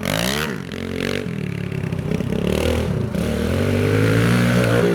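Pit bike engine revving up and down as the bike is ridden, with its pitch and loudness climbing in the second half.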